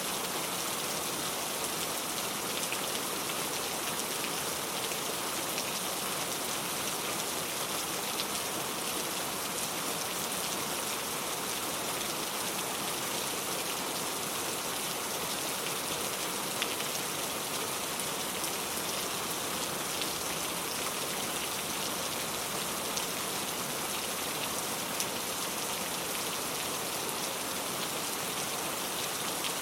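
Steady rain falling, a dense even hiss, with now and then a single louder drop ticking.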